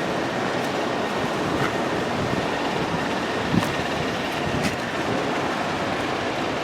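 A train running on the track: a steady rumble and rush, with two sharp clanks a little after the middle.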